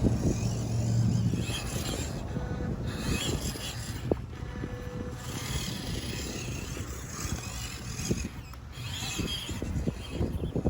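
Small radio-controlled trucks driving over rocks and sand, with a steady low motor hum in the first second or so and a sharp click about four seconds in.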